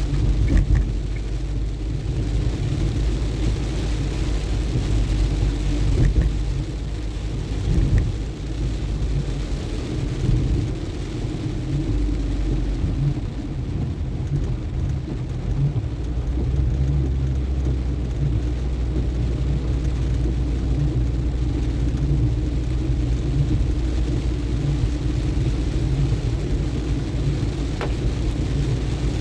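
Vehicle driving on a rain-soaked road: a steady low rumble of engine and tyres with the hiss of rain, and a few short knocks.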